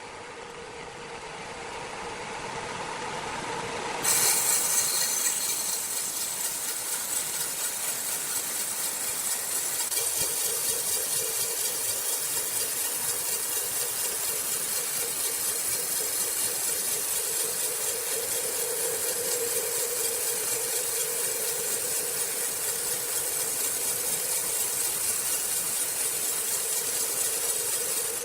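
Sawmill saw running with a steady hum, then, about four seconds in, cutting into a log with a loud, even, hissing rasp that holds steady.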